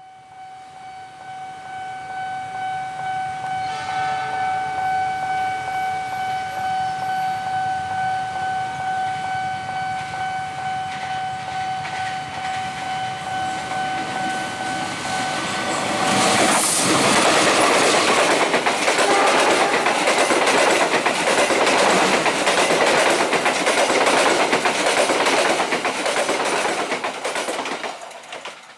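A steady high warning tone sounds for about the first half, then a train rushes past loudly with rapid wheel clatter over the rail joints, fading near the end.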